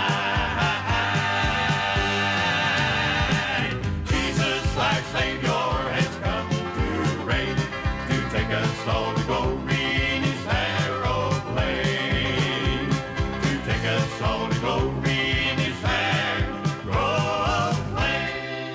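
Country gospel band music with a steady beat, played by the group's instruments.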